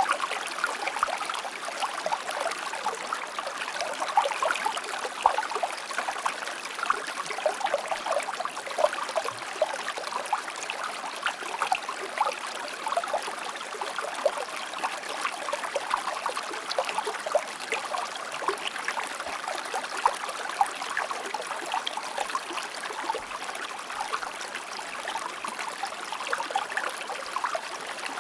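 A river flowing over stones, with a steady rush and many small splashes and trickles.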